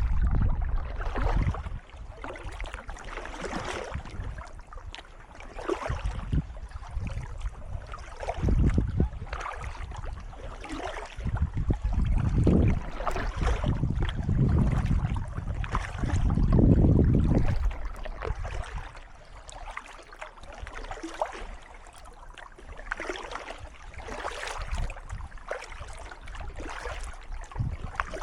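Kayak paddle strokes dipping and splashing in calm canal water, with water dripping and trickling between strokes. A few low rumbles rise and fade along the way.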